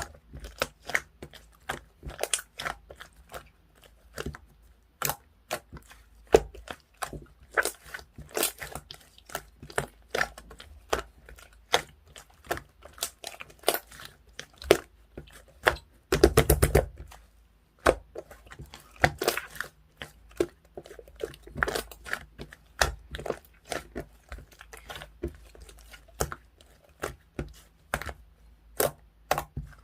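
Clear slime being squished and pressed by hand, giving irregular sticky clicks and pops, with a dense crackling run of pops about sixteen seconds in.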